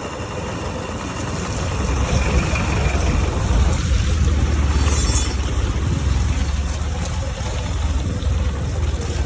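A heavy vehicle's engine running with a deep, steady rumble and road noise, growing louder about two seconds in.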